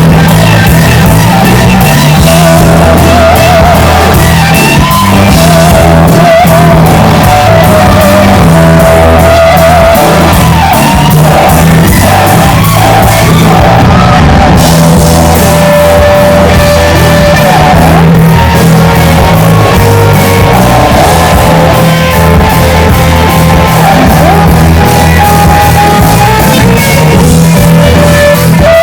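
Live rock music at full volume: a band with electric guitar, bass and drums, with a wavering lead line and some shouted or sung vocal.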